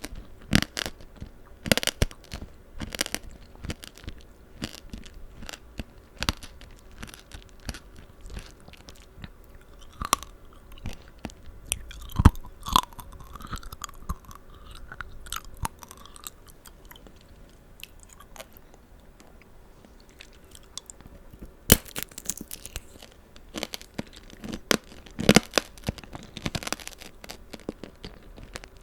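Close-miked chewing of tanghulu, the hard sugar shell on strawberries and green grapes cracking in irregular crunches. The crunches are sparse and softer in the middle stretch, then come thick again later on.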